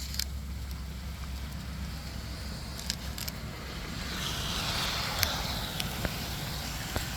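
Rain and ice storm: a steady wash of precipitation with a low rumble underneath and scattered sharp ticks of drops and ice striking nearby surfaces. A hiss swells and fades about four to six seconds in.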